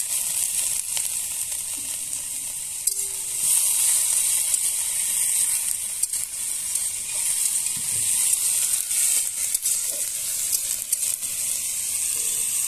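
Sliced eggplant and onion sizzling as they fry in hot oil in a steel wok, with a few light scrapes and clicks from a spatula stirring them. The sizzle grows louder about three seconds in.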